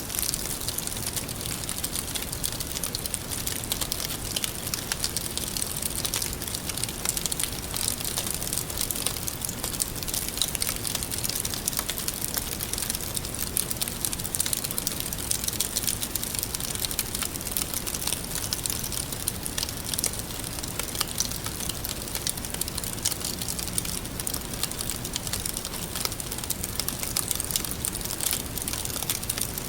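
Wood fire crackling steadily, with many small sharp pops and snaps over a constant hiss.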